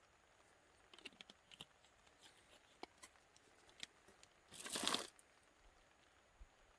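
Scattered small clicks and crinkling handling noises, then a louder tearing rustle lasting about half a second just past the middle.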